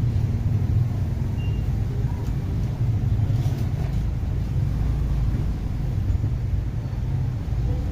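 Yamaha Mio Soul scooter's single-cylinder four-stroke engine running steadily at idle after a top-end rebuild, a continuous low rumble.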